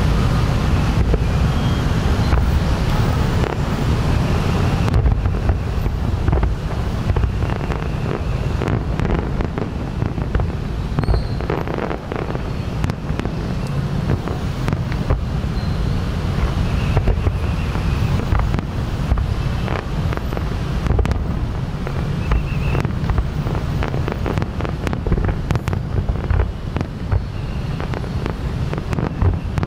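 Fireworks show: a dense, continuous run of bangs and crackles from bursting shells over a steady low rumble.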